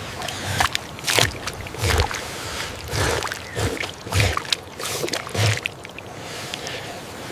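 Irregular splashing and sloshing of water, several strokes a second, with dull low thumps among them.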